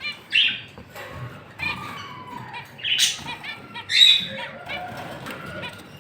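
Lovebirds calling with short, shrill, harsh squawks and chirps, the loudest bursts about half a second in, at three seconds and at four seconds.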